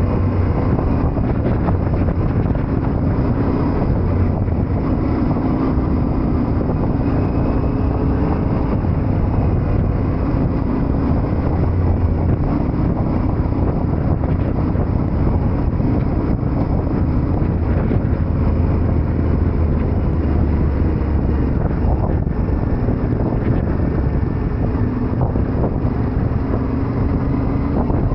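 Yamaha Ténéré 700 parallel-twin engine running under way, its note rising and falling a little with the throttle, with wind rushing over the microphone.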